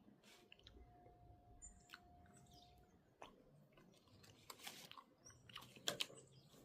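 Near silence with faint, scattered clicks and crunching sounds, strongest near the end. About half a second in, a faint steady tone starts and holds for about two and a half seconds.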